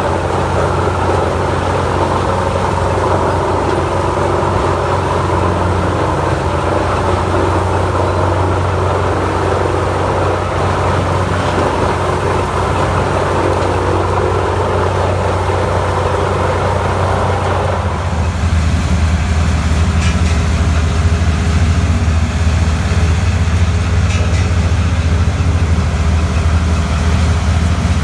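Large wood chipper running steadily at working speed, its engine hum under the noise of the feed and drum. About 18 seconds in the sound changes abruptly: the low engine hum grows stronger and the higher grinding noise drops away.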